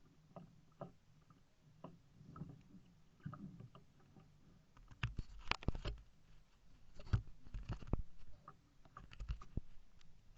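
Kayak paddling: irregular paddle strokes, splashes and knocks against the hull. They are loudest and most frequent from about five to eight seconds in.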